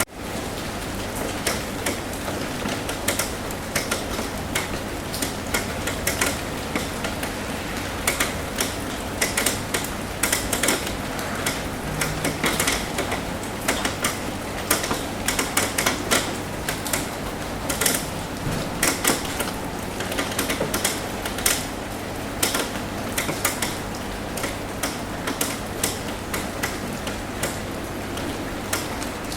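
Rain tapping on a roof: a steady patter with many irregular, sharp drip ticks.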